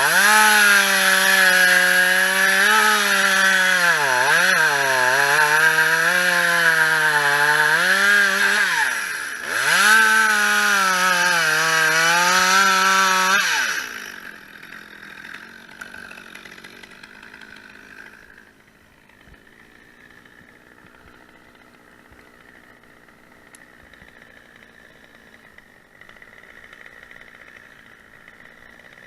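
Two-stroke chainsaw running at full throttle, its pitch sagging twice under load, then cutting off about fourteen seconds in; afterwards only a faint, steady low engine hum.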